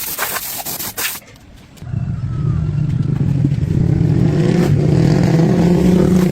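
A few short bursts of hiss, then from about two seconds in an engine running steadily and growing gradually louder until it cuts off abruptly.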